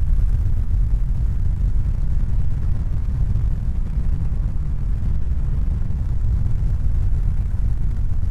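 A steady low rumble with no distinct tones or strokes.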